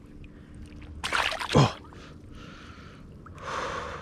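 A man gasping and breathing hard, out of breath from fighting a bass. There is a sharp gasp and a falling "oh" about a second in, then two heavy breaths.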